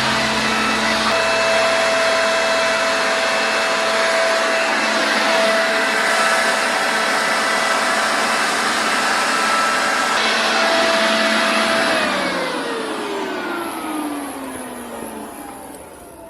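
A high-speed electric motor running steadily with a whine and a rushing hiss. About 12 seconds in it is switched off and winds down, its pitch and loudness falling away.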